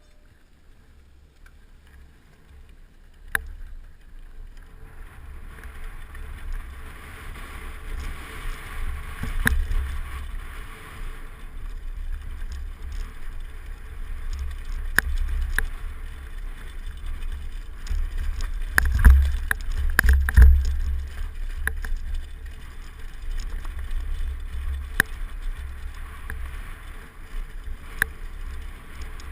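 Wind buffeting the microphone and rolling noise on a bicycle ride, with scattered sharp clicks and knocks from bumps and rattles. It grows louder a few seconds in.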